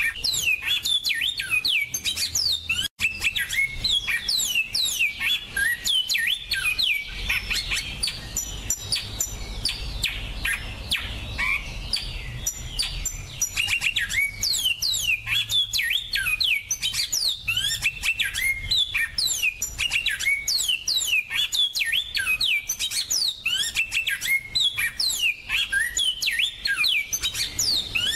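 Finch song from a song-training recording: a fast, continuous stream of short downward-sweeping chirps and twitters, with a momentary break about three seconds in.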